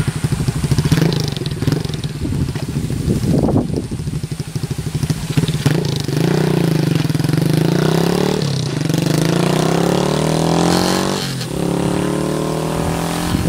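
Chinese-made single-cylinder four-stroke engine in a Monkey-style minibike, heard through an aftermarket Bike Parts Center muffler while riding: the engine note wavers, then climbs steadily under acceleration and drops sharply at a gear change about eleven seconds in, settling into a steadier, lower note.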